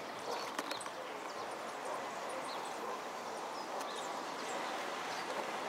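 Small birds chirping in a flowering tree: many short, high calls scattered throughout over a steady background hiss, with a few brief clicks.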